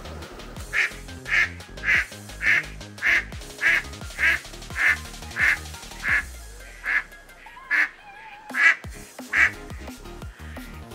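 Eastern spot-billed duck quacking in a long, even series of about fourteen calls, roughly two a second, slowing slightly near the end. Background music plays underneath.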